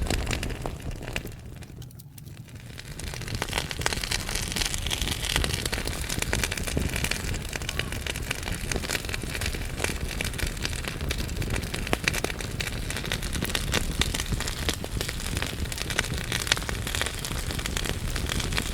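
Wood fire burning in a fireplace: a steady rushing hiss with dense, irregular crackles and pops from the burning logs, briefly quieter about two seconds in.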